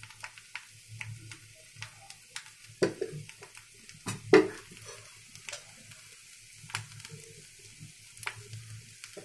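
Boiled potatoes and spices frying in oil in a pan, crackling and popping irregularly, with two louder knocks about three and four and a half seconds in.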